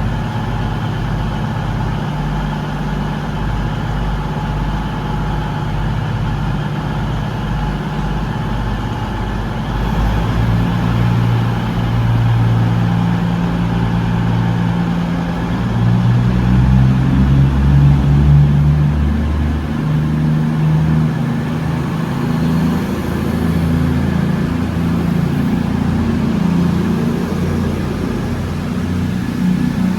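Diesel train engine running at a platform. It idles steadily at first, then gets louder, its pitch stepping up and down from about a third of the way in.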